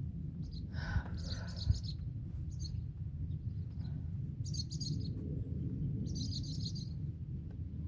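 Birds chirping in several short bursts of rapid high chirps, over a steady low rumble. Two light knocks come about one and two seconds in.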